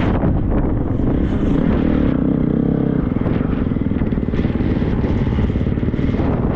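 Triumph 250 motocross bike's single-cylinder four-stroke engine running as it is ridden off-road, with a steady engine note that holds for about a second, two seconds in.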